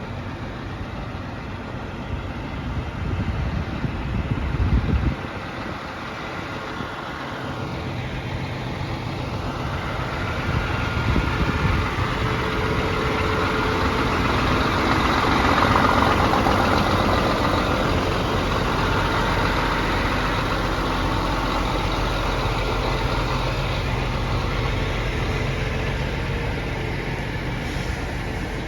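Scania 124G truck's 12-litre six-cylinder diesel engine running steadily, growing gradually louder toward the middle and then easing off. A short burst of low rumble sounds about four seconds in.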